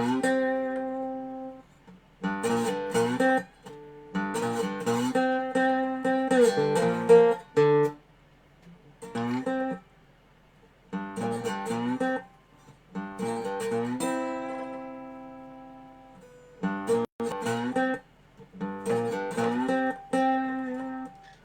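Dobro (resonator guitar) played in short stop-start phrases of ringing notes with pauses between them, one note left to ring and die away about two-thirds of the way through. It is a halting try at a tune whose rhythm the player is not getting right.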